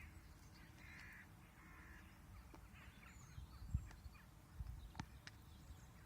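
A dog making faint, weird vocal noises in the first couple of seconds, then a single low thump about three and a half seconds in and a few light clicks.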